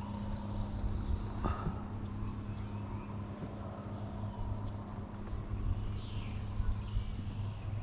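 A steady low hum, with faint high bird chirps over it and a single soft knock about one and a half seconds in.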